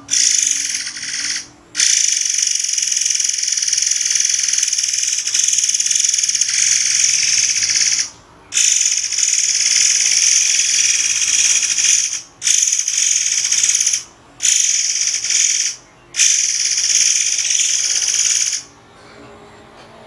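Insect buzzing: a high, continuous shrill held for several seconds at a time, broken by short pauses, and fading out near the end.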